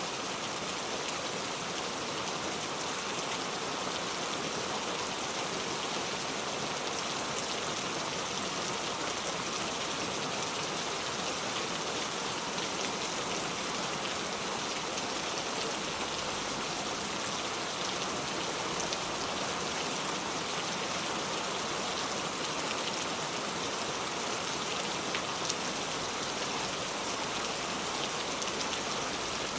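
Steady rain falling, a dense even hiss of drops with scattered individual drop ticks.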